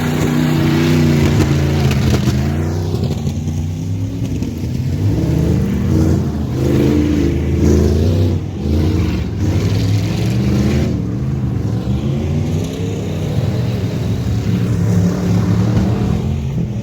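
Engine running hard and revving, its pitch rising and falling again and again as the throttle is worked.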